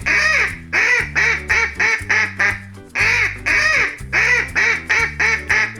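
Duck quacking in a fast run of short quacks, the run starting over about three seconds in, over a steady background music bed.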